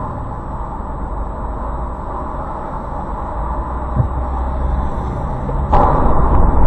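Steady car engine and road noise, growing suddenly louder about two-thirds of the way through, with a brief low thump shortly before.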